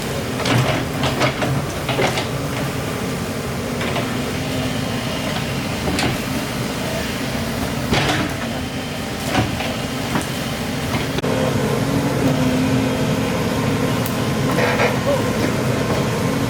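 Excavator's diesel engine running steadily, with scattered knocks and clanks, and the engine getting louder about eleven seconds in.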